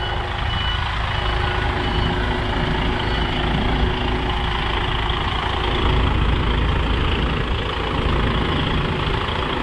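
Container truck's diesel engine running steadily at low revs as the rig creeps around a tight corner, with a faint reversing beep about once a second during the first few seconds.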